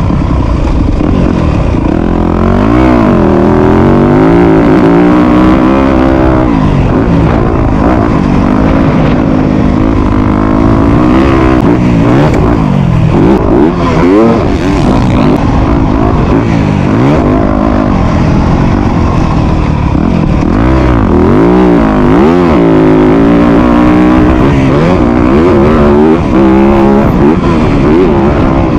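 Motocross dirt bike engine, loud and close, revving up and falling off again and again as the throttle is opened and closed.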